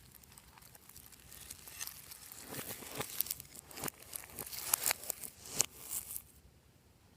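Slime being squeezed and stretched by hand, making quick irregular crackling pops. The sounds stop about six seconds in.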